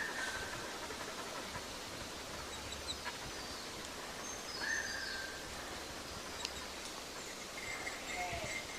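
Wild birds calling over a steady outdoor hiss. A short, level whistle sounds at the start and again about halfway through, with scattered high chirps in between and a brief lower call near the end.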